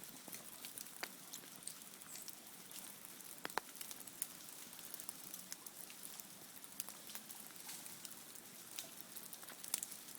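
Ice-coated tree branches crackling after an ice storm: a steady scatter of faint, irregular ticks and clicks, with a few sharper ones.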